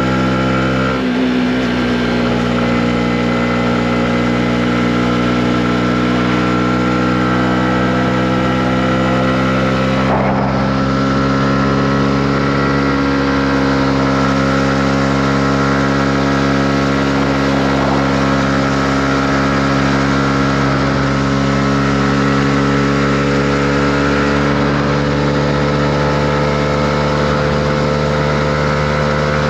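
Honda CB125R's single-cylinder four-stroke engine running under way. Its note changes about a second in, then the revs climb slowly and evenly as the motorcycle gathers speed.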